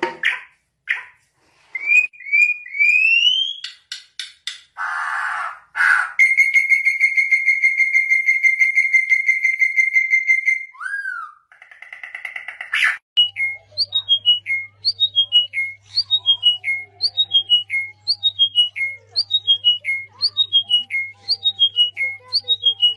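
A run of different bird calls: short rising whistled notes, then a long steady high trill, then, from about halfway, one call repeated over and over, each a quick falling series of high notes. A low steady hum starts under the repeated call.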